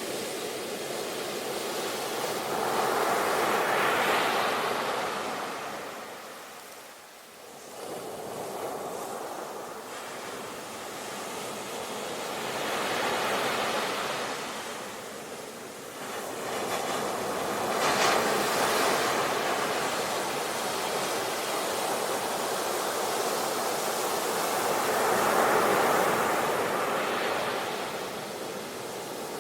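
Sea waves breaking and washing on the shore, the surf swelling and easing about four times, with a sharper crash a little past the middle and a brief lull about a quarter of the way in.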